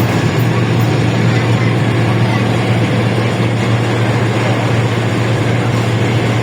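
LiAZ-677M city bus with its V8 petrol engine under way, heard from inside the cabin: a steady low engine drone over road and body noise, holding an even pitch.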